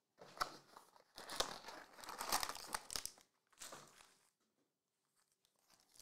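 Trading card pack wrappers crinkling and tearing as packs are opened and cards handled, in three spells of rustling with sharp crackles, falling quiet after about four seconds.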